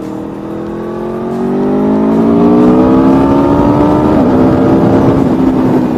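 Aprilia Tuono V4 motorcycle's V4 engine, breathing through an aftermarket Pipeworks can with the baffle in, pulling under acceleration. Its note rises steadily and gets louder for about four seconds, then levels off.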